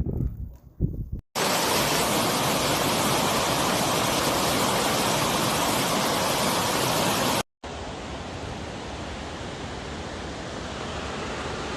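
Steady rushing water, a waterfall or torrent, heard as an even noise in two edited shots; the second shot, starting about seven and a half seconds in, is quieter. A few short knocks come in the first second.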